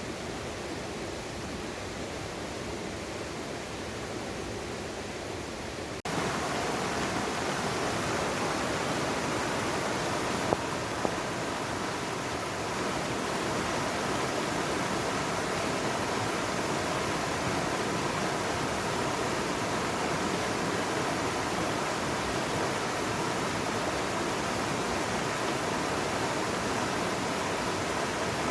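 Mountain stream water rushing steadily; it turns abruptly louder about six seconds in, with two brief clicks a few seconds later.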